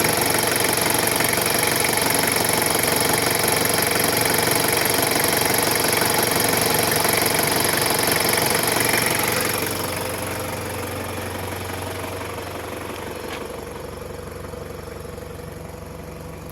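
Freshly overhauled Toyota 1KZ four-cylinder turbo-diesel engine running with a steady diesel clatter. About ten seconds in it becomes quieter, losing its higher sound, and keeps easing down.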